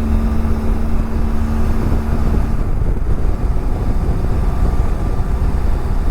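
BMW F700GS parallel-twin motorcycle riding at road speed: a steady engine drone under wind and road noise on the helmet-mounted microphone. A steady hum in the mix drops away about two and a half seconds in.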